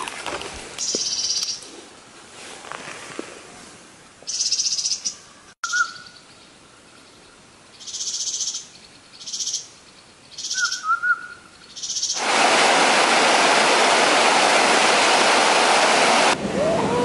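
A songbird sings short, high trilled phrases several times, a second or two apart. About twelve seconds in, the loud rush of a forest stream takes over, then cuts off near the end.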